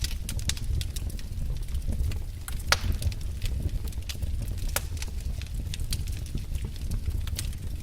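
Wood fire crackling in a fireplace: irregular sharp pops and snaps of burning logs over a low steady rumble of the flames, with one louder pop about a third of the way in.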